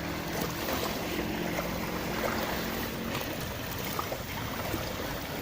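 Small sea waves washing up the beach and drawing back, an even wash with light wind.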